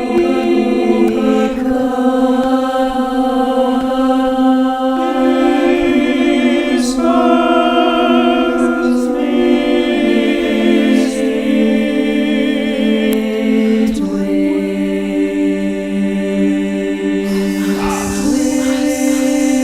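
A cappella choir singing sustained chords that shift every few seconds, with vibrato on some upper voices.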